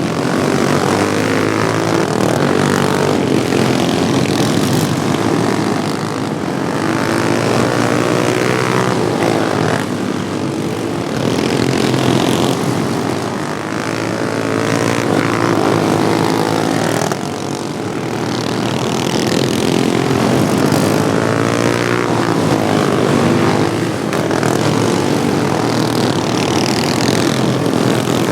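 Modified Wheel Horse racing lawnmowers' small engines running hard on track. Several engines overlap, their pitch rising and falling every few seconds as they rev down the straights and back off for the turns.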